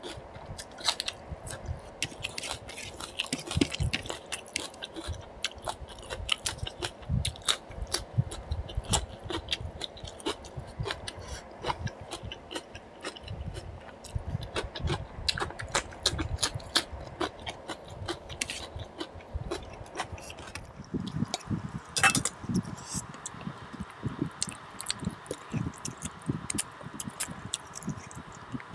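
Close-miked chewing and biting of food, with crunches of raw onion and cucumber and many small wet mouth clicks. One sharper click comes about three-quarters of the way in.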